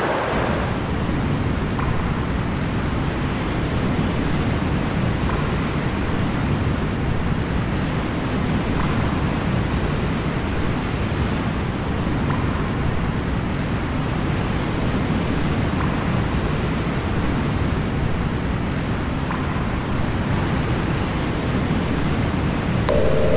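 A steady low rumbling noise, even and unbroken, with a few faint soft clicks every few seconds. Near the end a steady mid-pitched tone comes in.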